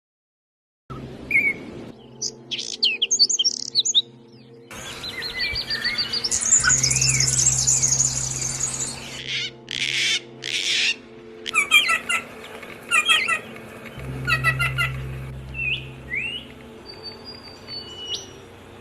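Small songbirds chirping and trilling: quick runs of high chirps, rapid trills and short whistled notes, starting about a second in, over a steady low hum.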